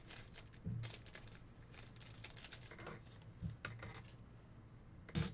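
Trading cards and foil pack wrappers being handled: light rustling and crinkling with scattered clicks and a few soft knocks, the loudest a short knock near the end.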